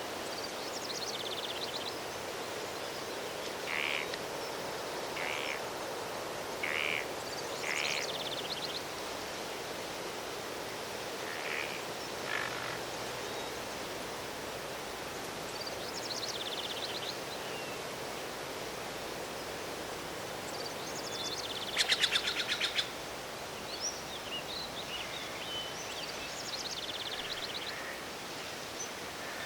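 Wild birds calling in a forest: scattered short chirps and descending high trills, with one loud rapid trill about two-thirds of the way through, over a steady rushing background noise.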